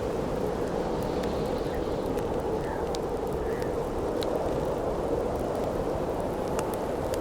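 Steady howling wind of a snowstorm, with a few sharp pops and crackles of a burning wood campfire over it.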